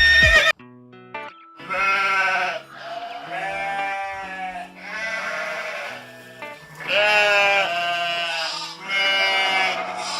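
Sheep bleating about five times, each call about a second long with a wavering pitch, over a background music track.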